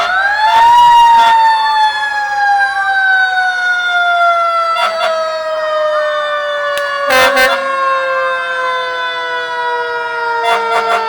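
Fire engine's mechanical siren winding up sharply about half a second in, then slowly winding down in pitch as it coasts. A couple of short knocks sound over it, one near the start and one about seven seconds in.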